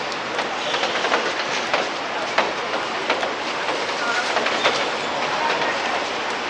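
Steady rain, with many individual drops ticking sharply close to the microphone.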